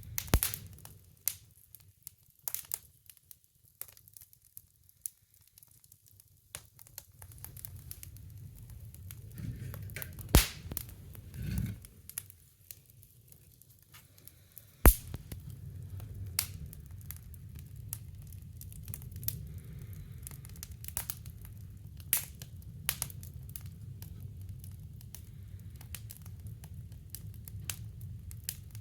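Wood fire crackling in a woodstove: irregular sharp snaps and pops over a low steady rumble, which fades out for several seconds in the first half.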